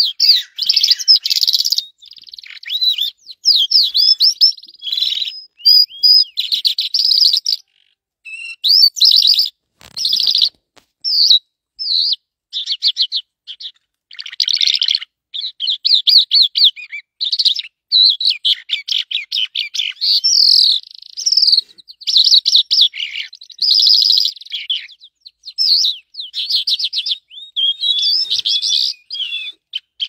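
A bird singing loudly up close: rapid high chirps and trills in short bursts, separated by brief pauses.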